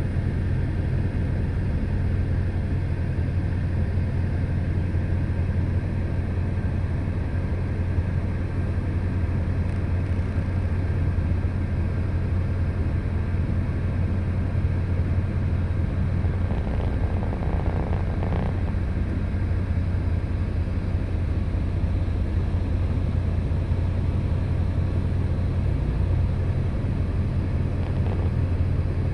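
Semi-truck diesel engine idling: a steady low hum.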